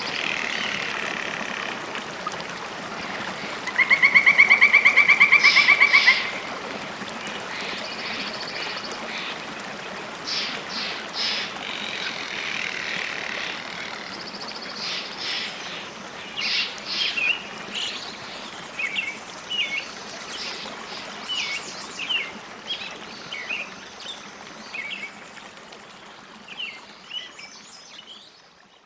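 Birds singing over a steady rush of flowing water. A loud, rapid trill comes about four seconds in, followed by scattered short chirps, and the whole sound fades out near the end.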